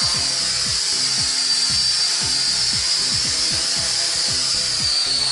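Small MJX toy quadcopter's motors and propellers whining steadily at a high pitch while it flies.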